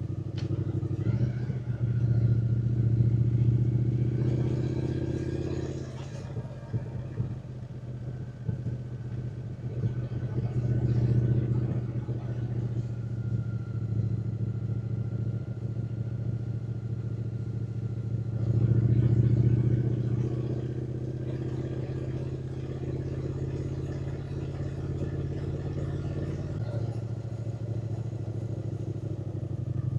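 Triumph Speed Twin 900's 900 cc parallel-twin engine pulling along a mountain road. Its note swells and eases as the throttle is opened and closed, loudest in three stretches: a few seconds in, around the middle, and about two-thirds of the way through.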